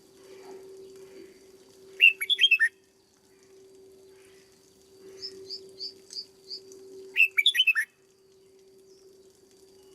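Red-whiskered bulbul singing: two short loud phrases of quick falling notes about five seconds apart, with softer chirps between them. A steady low hum runs underneath.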